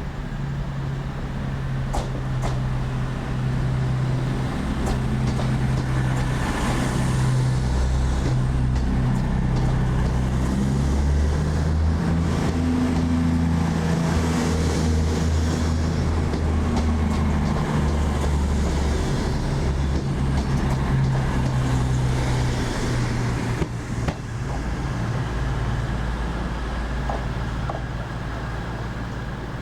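A train running in a station, its deep, steady engine or traction hum growing louder over the first few seconds, with a short dip about two-thirds of the way through before easing off.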